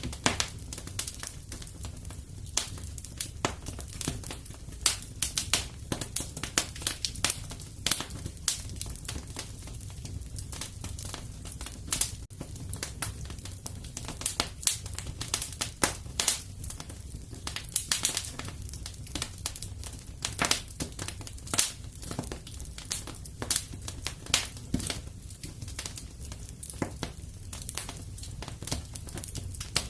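Fireplace crackling: a steady run of irregular pops and snaps over a low, even rumble.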